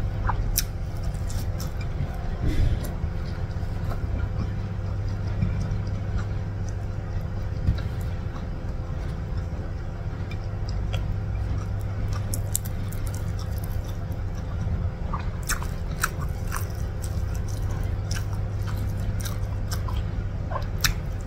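Close-miked chewing and mouth sounds of a person eating rice with urap and beef rendang by hand, with frequent small sharp clicks, over a steady low hum.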